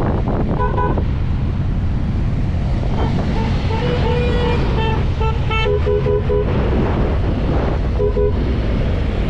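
Steady low road and engine rumble of a car on the move, with a run of short pitched toots. The toots come once early, in a cluster from about three to six and a half seconds in, and once more near the end.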